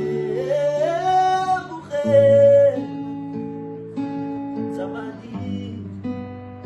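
Acoustic guitar music, plucked and strummed, with a wordless sung line over it that slides upward about half a second in and holds its loudest note from about two seconds in.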